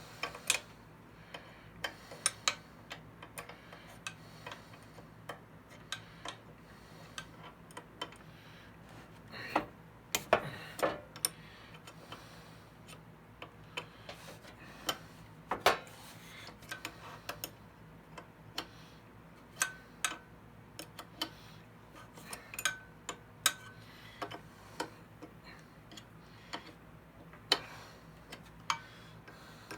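Irregular sharp metal clicks and taps of hand tools and small parts on a thickness planer's cutterhead as the blade's retaining screws are worked loose, over a faint steady hum. A louder clatter comes about ten seconds in and again near sixteen seconds.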